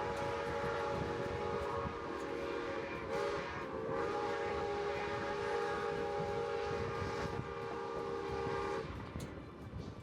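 Steam locomotive No. 81's chime whistle blowing one long blast of several notes together. The blast wavers briefly about three seconds in and cuts off near the end. Under it runs the steady rumble of the train rolling on the rails.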